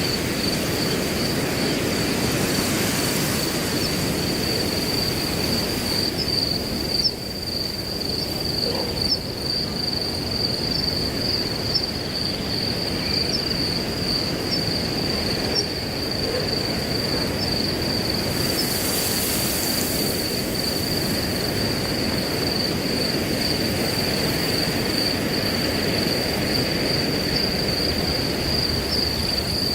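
Wind rushing through grass, with a steady, high cricket trill running unbroken over it; the rustle swells briefly twice, once near the start and once about two-thirds of the way through.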